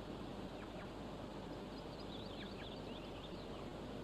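Steady outdoor field ambience with a constant hiss, over which small birds give quick, high chirping notes: a couple just after the start, then a brisk cluster about two to three seconds in.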